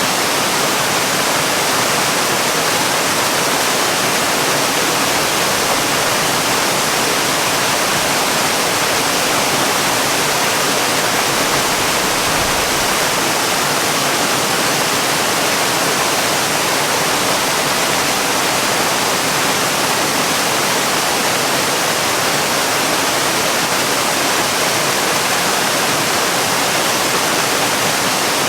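Waterfall: water falling in a steady, even rush with no change or break.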